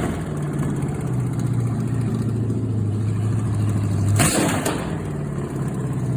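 A car engine running with a steady low note, which shifts in pitch about four seconds in.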